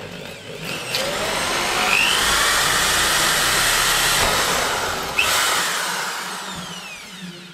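Power drill boring holes through a drilling template into an interior door for the door rosettes, running hard for about four seconds, then winding down.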